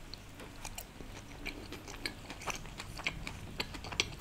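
Close-miked chewing of a soft steamed dumpling (a green hara bhara momo): irregular wet mouth clicks and smacks, several a second.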